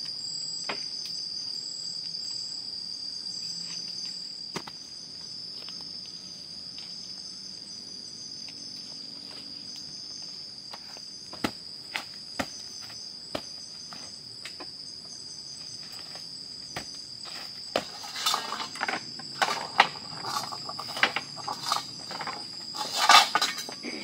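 A chorus of night insects, crickets by their sound, making a steady high-pitched chirr throughout. Scattered sharp clicks occur along the way, and in the last few seconds a flurry of louder knocks and clatter, the loudest sounds here.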